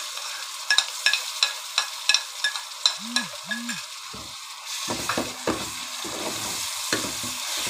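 Ghee sizzling in an aluminium cooking pot as tomato paste is added and stirred in with a long-handled steel ladle. Rapid sharp clicks of the ladle come in the first few seconds, and heavier scraping knocks against the pot follow. The sizzle grows louder past the middle.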